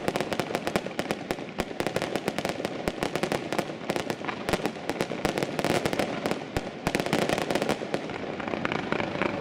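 Fireworks crackling: a dense, unbroken stream of sharp pops and cracks, many a second.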